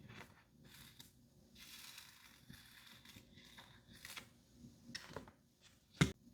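Makeup tools and products being handled: soft scratchy brushing, a few light clicks, and one sharp knock near the end.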